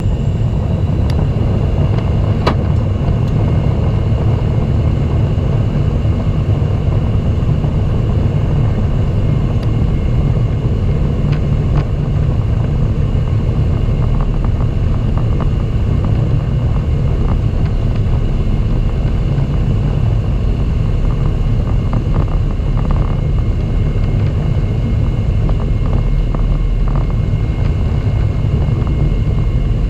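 Boeing 767-300 cabin noise: a steady, loud low rumble of the jet's engines and airflow with a faint high whine. A few short clicks stand out, the sharpest about two and a half seconds in.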